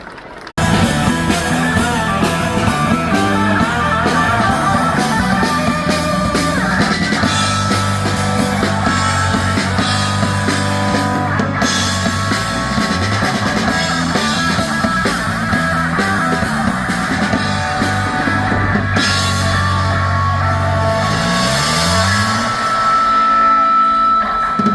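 Rock music with guitar and drums, starting suddenly about half a second in and playing on steadily with a prominent bass line.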